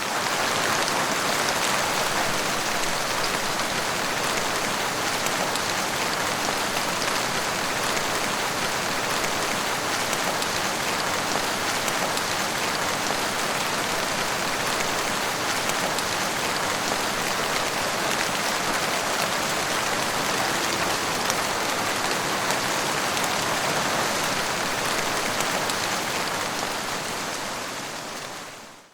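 Heavy rain falling steadily, an even hiss of rain on a surface with no thunder, fading out near the end.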